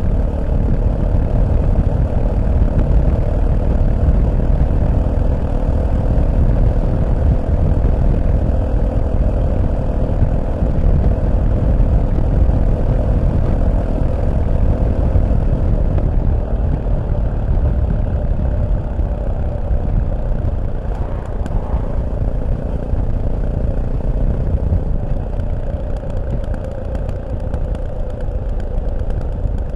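Fantic Caballero 500 single-cylinder motorcycle engine running on the move, with wind rumble on the microphone. The steady engine note eases off about halfway through, and the sound is a little quieter near the end.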